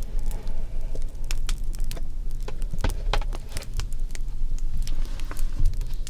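Crackling fire: irregular sharp pops and snaps scattered throughout, over a steady low hum.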